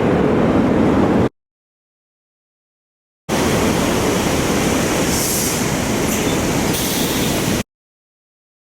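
A train passing close by, a loud steady rumble of wheels and running gear. The sound cuts off abruptly about a second in, returns after a two-second gap of dead silence, and cuts off again near the end.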